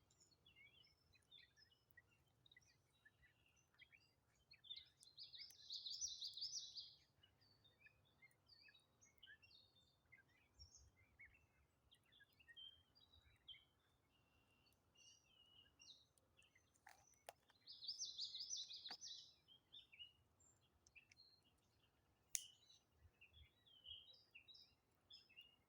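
Small songbirds chirping and calling on and off, faint overall, with a louder rapid trilled song about five seconds in and again around eighteen seconds. A single sharp click comes near the end.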